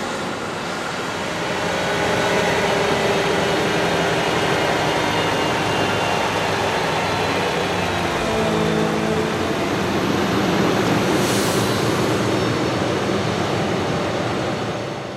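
Diesel engines of heavy farm machinery running steadily, the sound fading out near the end.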